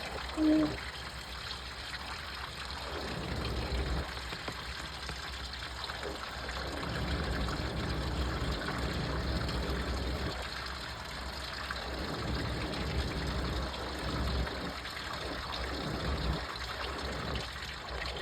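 Washing machine running its wash, with water sloshing and trickling inside the drum over a low rumble that swells and eases.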